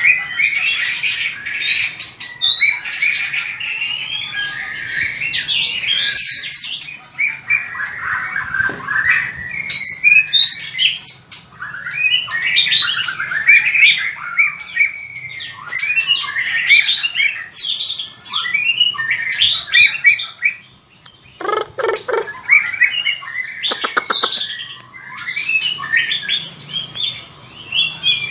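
White-rumped shama singing a long, varied song of gliding whistles, fast trills and clicks, with a harsh lower note about two thirds of the way in. It is the aggressive fighting song (hót đấu) used to train caged shamas.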